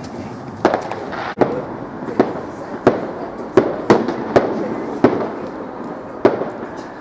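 Fireworks going off: a dozen or so irregular sharp bangs over a continuous crackle and rumble.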